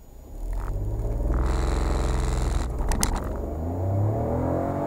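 Suzuki Swift's 1.0 Boosterjet turbocharged three-cylinder engine accelerating hard from a standstill through its six-speed automatic, heard from inside the cabin. The engine note climbs, changes at an upshift about three seconds in, and climbs again to another shift near the end.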